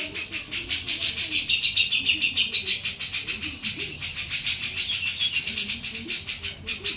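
Jenggot bird singing a continuous, fast rattling song of rapidly repeated high notes, about ten a second, with whistled notes running over them.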